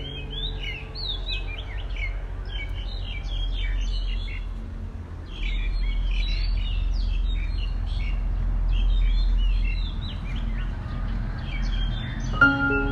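Many small birds chirping and calling in quick, overlapping bursts, over a steady low rumble.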